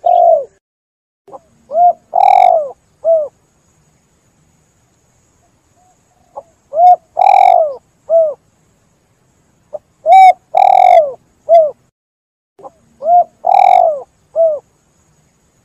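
Spotted dove cooing: four calls spaced about three to four seconds apart, each a couple of short coos, one longer coo and a short closing coo, with silence between the calls.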